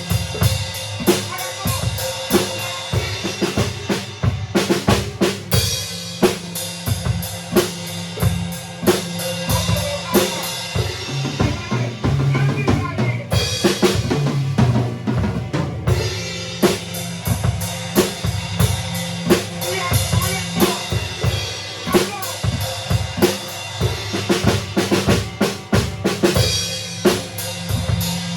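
A band rehearsing an instrumental passage live: the drum kit is up front, with bass drum, snare and rimshot hits keeping a steady beat over a bass line. The cymbals drop out briefly about halfway through, then the full kit comes back.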